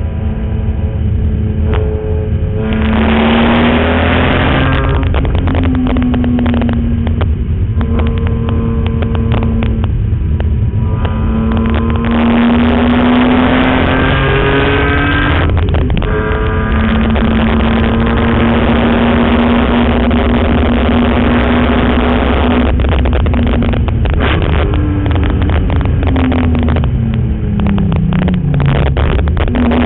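BMW E46 M3's S54 straight-six engine being driven hard on a race track, its note climbing under acceleration several times and falling away near the end as the car slows, over a steady low rumble of road and wind.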